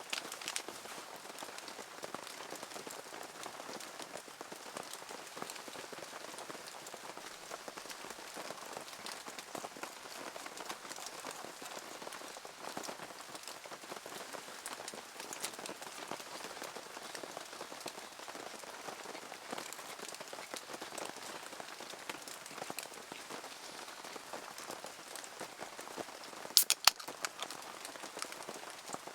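Steady rain falling, an even hiss dotted with many small drop hits. A few sharp clicks come close together near the end.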